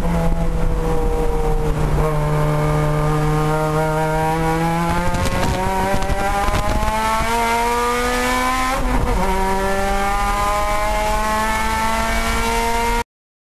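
Mitsubishi Lancer Evolution VIII's turbocharged 4G63 four-cylinder engine at full throttle, heard from inside the cabin. Its note climbs steadily in pitch and breaks briefly twice, about five and nine seconds in. The sound cuts off abruptly near the end.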